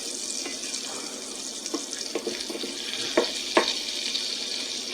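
Butter melting and sizzling in a hot pan: a steady hiss with scattered small pops and crackles, two louder pops a little over three seconds in.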